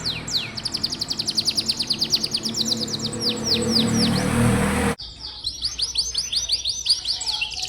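Domestic canary singing fast trilled rolls of repeated, high-pitched, downward-sweeping notes. About five seconds in the song breaks off abruptly and picks up again in a new rolling phrase.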